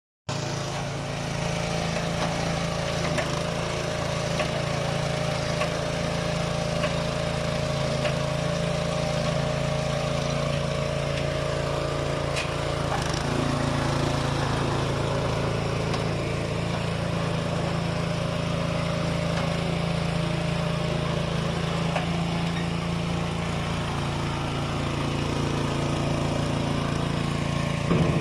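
Electric mini dump truck's motor running steadily with a low hum, with a few light clicks and knocks scattered through.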